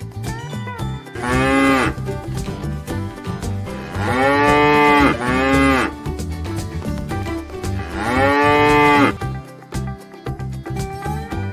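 Cow mooing four times, with long calls spaced a few seconds apart, two of them close together in the middle, over background music.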